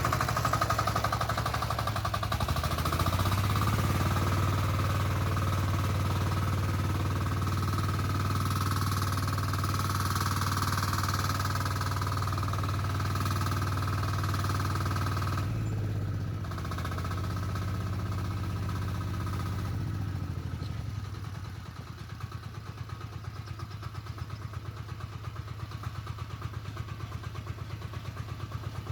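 Diesel walk-behind tractor engine revved up about three seconds in and held at high revs, with a brief dip in the middle. It drops back to a chugging idle a few seconds later.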